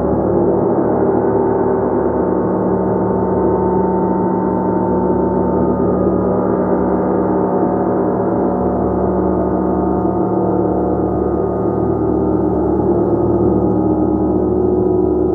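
Gong played continuously, its many overtones swelling into one dense, sustained wash of tone with no single strike standing out.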